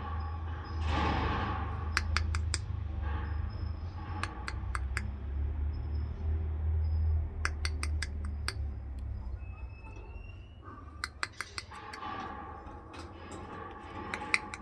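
Parrot clicking its beak in quick runs of three or four sharp clicks that repeat every few seconds, with one brief faint whistle about ten seconds in.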